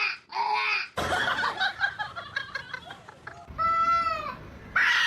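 Animal calls: two short harsh calls, a rapid chattering stretch, then one longer call that rises and falls, and another short call near the end.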